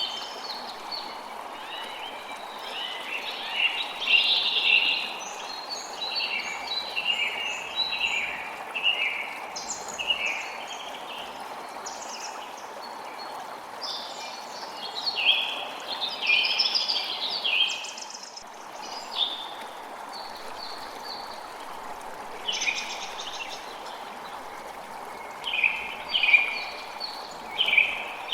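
Creek water running steadily, with songbirds singing over it in frequent short bursts of chirps and a lull of a few seconds just past the middle.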